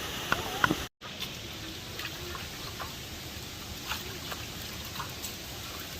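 Steady rush of falling water from a waterfall, with scattered small clicks and drips on top. The sound drops out for a moment about a second in.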